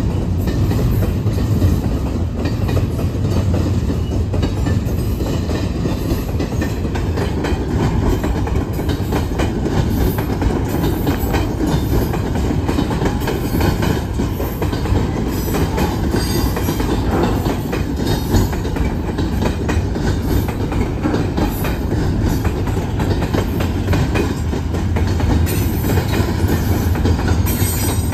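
Double-stack container cars of a freight train rolling past: a steady rumble with a continuous run of wheel clicks.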